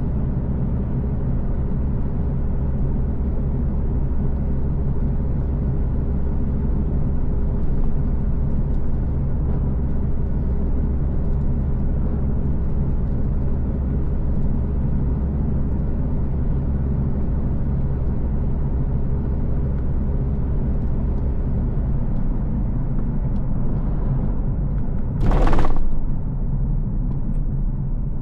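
A car being driven: a steady low engine and road rumble, with the engine note changing about three quarters of the way through. Near the end comes a brief, loud rush of noise lasting about half a second.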